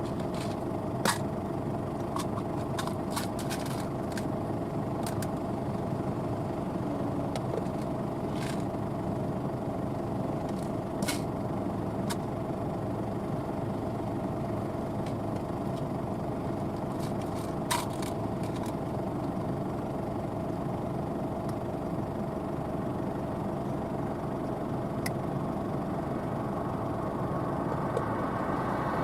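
Claas Lexion 770 TT combine harvester running steadily, a constant machine drone made of several steady tones, with a few brief sharp clicks over it.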